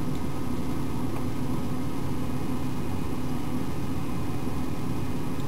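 Steady mechanical hum with a hiss, a few low tones held throughout and no change.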